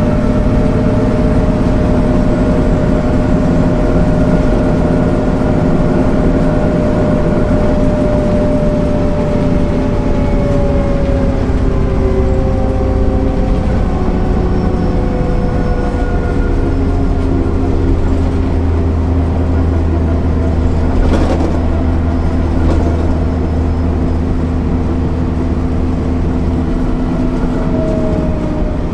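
MAN NL 262 city bus under way, its diesel engine and drivetrain running with a steady hum whose pitch falls slowly over the first half, as the bus eases off. Two short clicks or knocks come about two-thirds of the way through.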